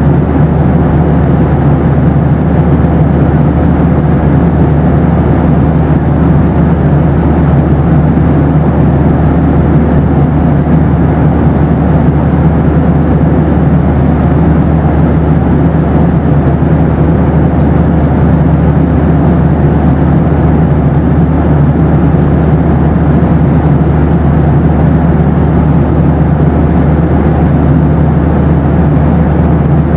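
Steady low cabin rumble inside a Boeing 737 airliner in flight: engine and airflow noise, unchanging throughout, with a faint steady hum above it.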